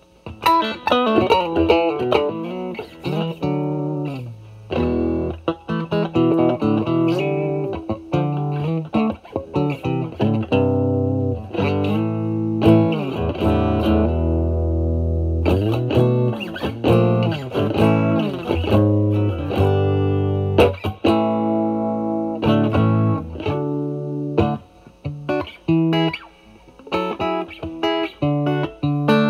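Stratocaster electric guitar through a Vertex Steel String Clean Drive pedal (J201 FET, Dumble-style overdrive) set low, around gain 1–2, into a Marshall Valvestate amp's clean channel: an improvised blues phrase of picked single notes and chords with light overdrive. About twelve seconds in a low note is held for a few seconds, then quicker picked notes follow.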